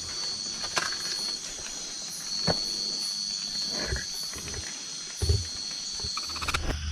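A steady high-pitched insect drone, with a few scattered knocks and thumps.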